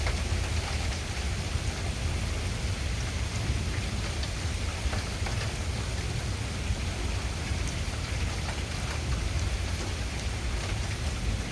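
Steady rain falling and pattering on surfaces in a thunderstorm, with scattered drop ticks over a constant low rumble.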